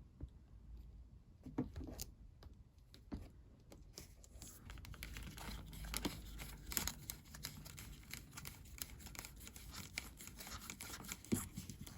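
Faint handling noise: scattered small clicks and scratches as a washer is worked onto the front of a power supply's repaired lead.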